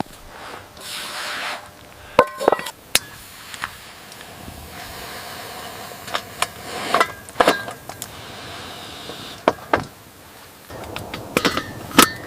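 A series of light knocks and clinks, several with a short ring, over a steady faint hiss.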